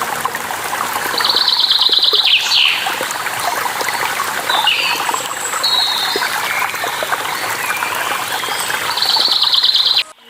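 Steady rush of running water with songbirds calling over it: a rapid high trill twice, with scattered chirps and a falling whistle between. The whole sound cuts off abruptly just before the end.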